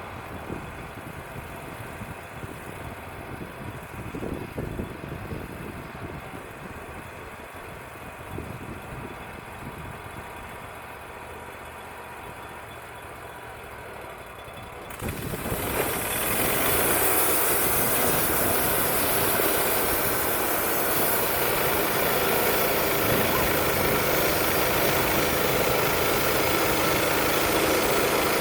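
Wood-Mizer LT35 portable band sawmill running at idle with wind gusting on the microphone. About halfway through it suddenly gets much louder, with a strong steady hiss, as the mill throttles up with the band blade running.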